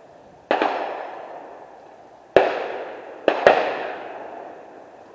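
Gunshots on an outdoor shooting range: four sharp reports, the first about half a second in, another near the middle, then two in quick succession, each trailing off in a long echo.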